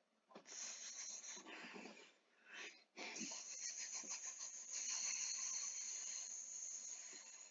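Ryko Softgloss XS automatic car wash spraying the car: a steady hiss of water jets that starts suddenly, breaks off twice briefly, then goes on and fades near the end.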